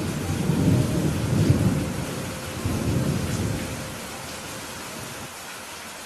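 Steady rain hiss with a low thunder rumble that swells near the start, rolls on for about four seconds and then fades.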